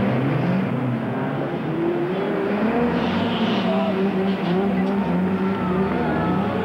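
Alfa Romeo 75 rally car's engine running hard under load, its note rising, dipping and rising again as it accelerates and changes gear.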